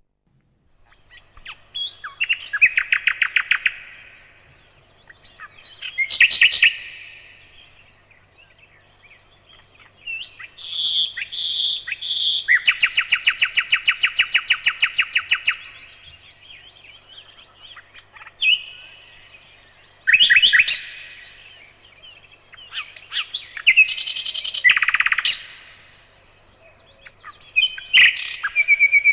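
Nightingale singing in separate phrases a few seconds apart, each made of fast, evenly repeated notes. About ten seconds in, three clear whistled notes lead into the longest phrase, a rapid trill lasting about three seconds.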